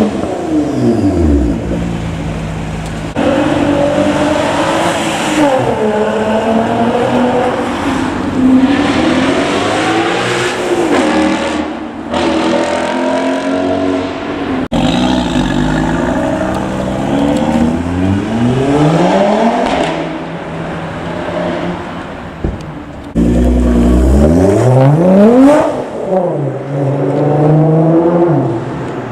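Car engines revving and accelerating, their pitch repeatedly climbing and dropping, across several spliced clips with abrupt cuts between them.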